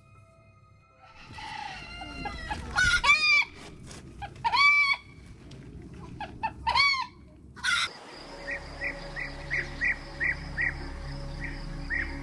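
Bird calls: loud arched cries in short groups, then after a sudden change about 8 s in, rapid short high chirps, about three a second, over a steady hiss.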